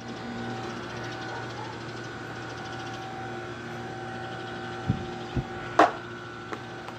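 A steady mechanical hum with a few pitched tones, like a running machine or air-conditioning unit. Near the end come two dull thumps and then a sharp knock, which is the loudest sound.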